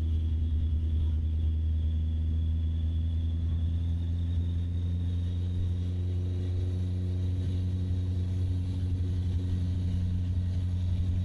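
Honda CB650R's inline-four engine running at a steady pitch, under a strong low rumble of wind on the microphone.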